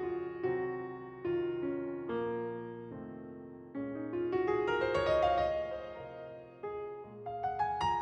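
Background piano music: gentle struck notes, with a rising run of notes about halfway through and a new phrase near the end.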